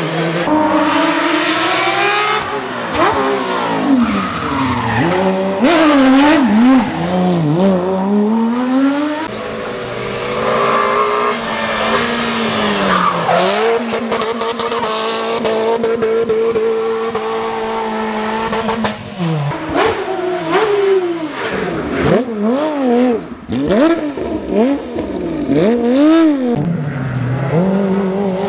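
Rally car engines revving hard and dropping through gear changes, with sharp pops and tyre squeal. In the middle the engine note holds steady for several seconds before the revving up and down starts again.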